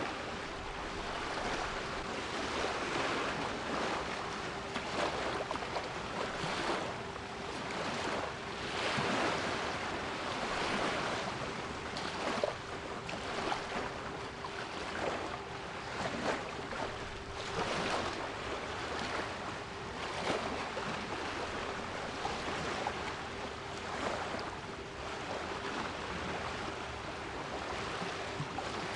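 Sea waves washing in, a rushing hiss that rises and falls every second or two, with a steady 396 Hz pure tone held underneath throughout.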